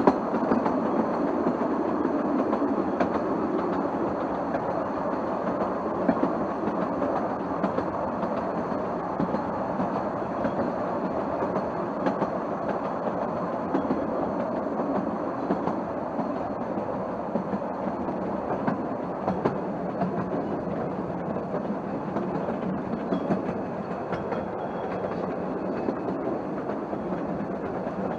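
Narrow-gauge steam train running along the line, heard from the carriage: a steady rumble and rattle of the wheels on the track, with a few faint clicks.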